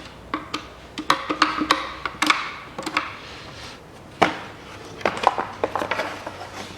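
Irregular sharp clicks, taps and knocks of a screwdriver and hand work on an engine valve cover while the crankcase ventilation valve's screws are undone, with one louder knock about four seconds in.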